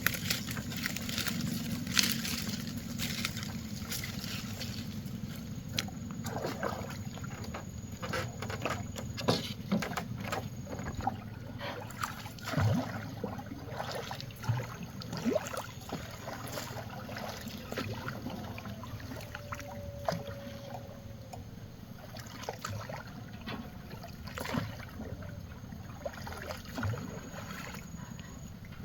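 Water sloshing and lapping around a bamboo raft, with many irregular knocks and clicks scattered through.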